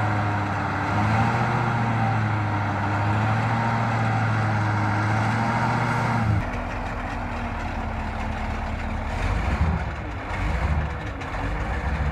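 Heavy logging truck's engine working hard under a load of timber in mud, a steady low drone that changes abruptly about six seconds in to a rougher, uneven rumble.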